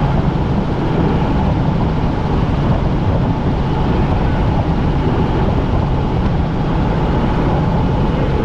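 Helicopter in flight heard from inside the cabin: a loud, steady rotor and engine noise that holds unchanged throughout.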